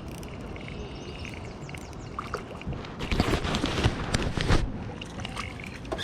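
Water splashing for under two seconds, about three seconds in, as a hooked bluegill is pulled up beside a kayak. Faint insect and bird chirping runs underneath.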